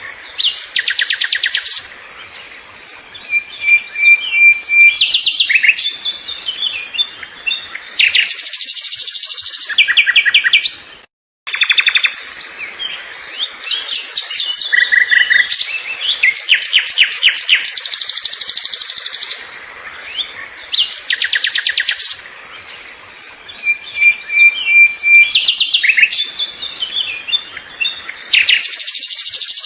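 Small birds chirping and twittering in loud bursts of rapid, high chirp trills, with a brief cut to silence about eleven seconds in.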